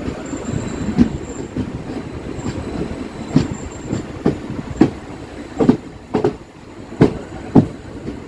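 Passenger train running, with a steady rumble and irregular sharp clunks of the wheels knocking over rail joints and points as it moves onto the main line.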